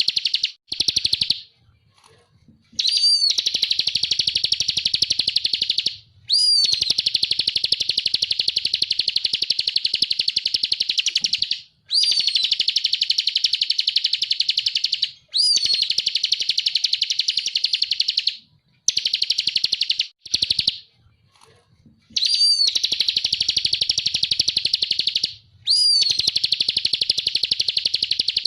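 Bar-winged prinia (ciblek kristal) singing: repeated loud bouts of a very fast, buzzy trill, each a few seconds long and opened by a sharp rising note, with brief pauses between.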